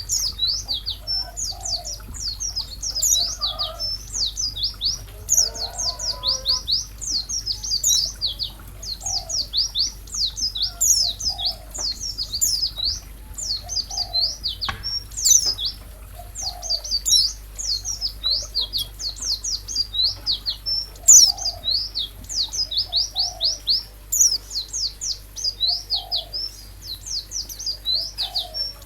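A songbird singing a continuous, rapid string of high, sharp down-slurred chirps, with a softer, lower note repeating about once a second underneath.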